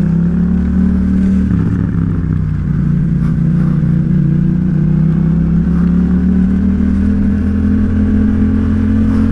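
Yamaha XSR700's parallel-twin engine running under way. Its pitch dips about a second and a half in, then rises slowly as the bike accelerates.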